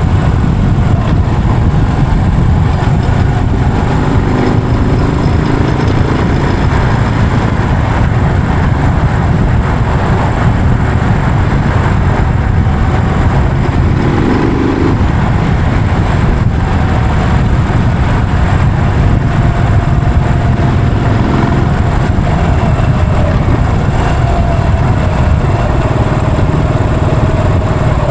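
Yamaha SR400's single-cylinder four-stroke engine running steadily and loudly, with a low, even engine note.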